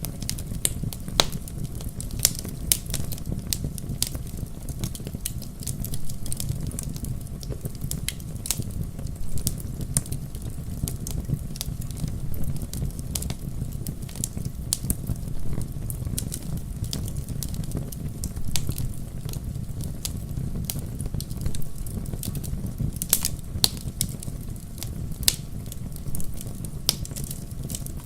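Wood fire burning in a fireplace: a steady low rumble with sharp, irregular crackles and pops.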